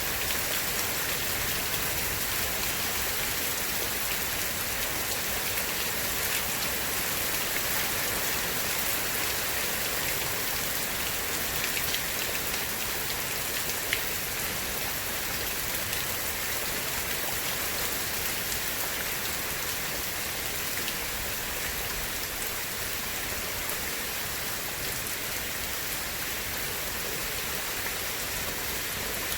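Steady rain falling, an even hiss of many drops with a few sharper drop ticks.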